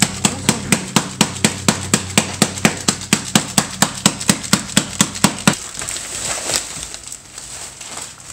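Rapid, even pounding on a kitchen counter, about four blows a second, as something is smashed. The pounding stops about five and a half seconds in.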